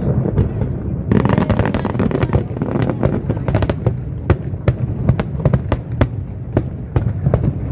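Fireworks display: many sharp bangs and crackles over a continuous low rumble, with a denser spell of hissing crackle about a second in.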